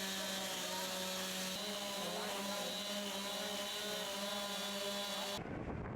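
An engine running at a steady pitch, cut off abruptly near the end by a low, wind-like rumble.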